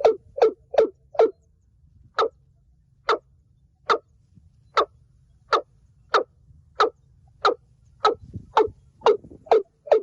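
Watercock calling: a series of short, hollow, evenly repeated notes, quick at first, then spaced about one a second in the middle, and quickening again near the end.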